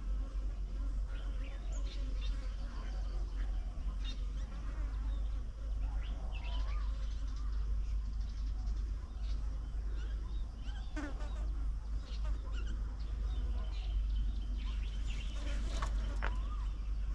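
Small birds calling and chirping here and there, short notes and quick glides, busier near the end, over a steady low rumble.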